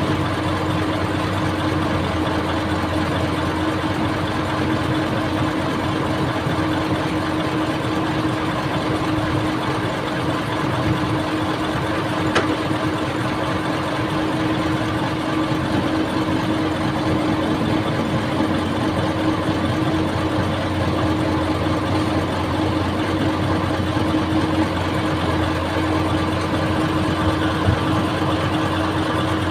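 Old excavator's diesel engine running steadily at an even pitch, with one brief sharp click about twelve seconds in.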